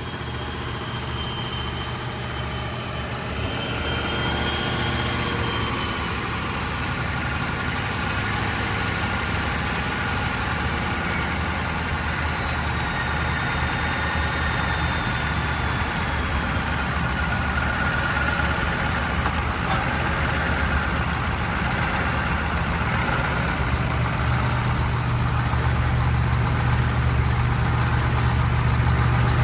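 Ford 7.3 IDI turbo diesel V8 idling steadily, freshly running after sitting for years. A high whine slowly falls in pitch over the first half, and the engine grows slightly louder toward the end.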